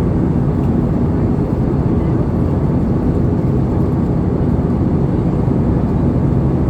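Steady low rumble inside the cabin of an Airbus A320-214 airliner in flight: engine and airflow noise.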